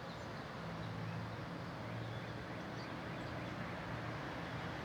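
Steady outdoor background: a low, slightly wavering mechanical hum under a general hiss, with a few faint, short bird chirps.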